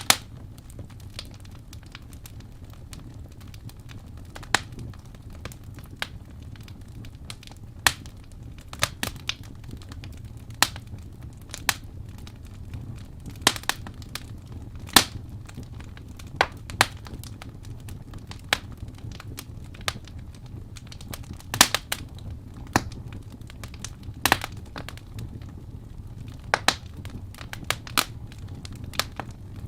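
Wood fire burning in a fireplace: a low steady rumble of flames with irregular sharp crackles and pops from the burning logs, a few of them louder.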